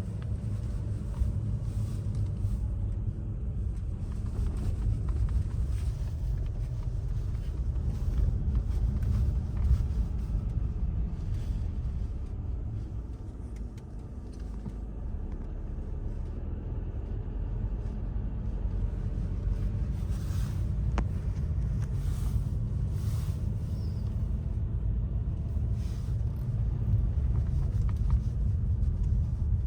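Steady low rumble of a motor vehicle on the road, with no clear events standing out.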